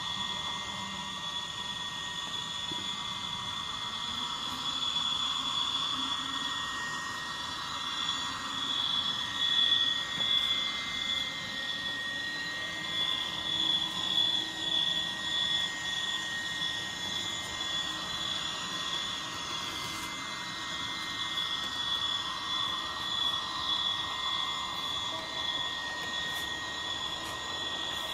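ESU LokSound V5 sound decoder in an HO-scale Jawn Henry model playing its steam-turbine sound through the model's small speaker: a steady high whine over a hiss, pulsing louder in stretches.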